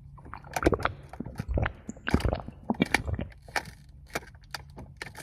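Someone chugging water in several gulps, a low swallow every half second to second, with a few sharp clicks in between.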